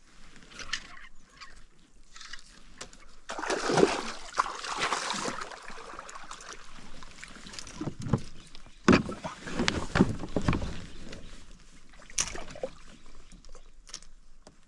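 Water splashing and sloshing against a fishing kayak, in two loud spells, about three and a half seconds in and again around nine to ten seconds, with sharp knocks in between.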